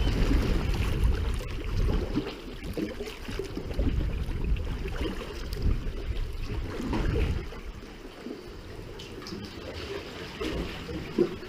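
Water trickling and splashing around a sea kayak, with a low rumble that drops away about seven and a half seconds in.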